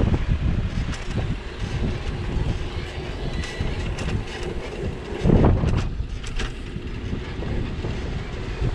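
Ride noise from a bicycle-mounted action camera: wind buffeting the microphone and the bike rattling and clicking over a rough street, with a louder bump about five seconds in.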